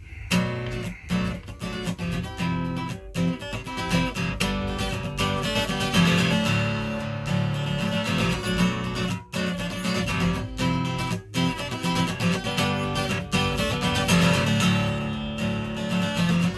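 Instrumental song intro: a guitar strumming chords in a steady rhythm, with a few brief breaks.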